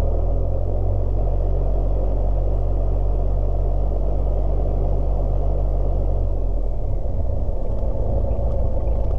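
Cessna 172S's four-cylinder piston engine running at low power in the cockpit, heard as a steady low drone with propeller hum, picked up through the intercom audio. The low drone turns rougher about six and a half seconds in.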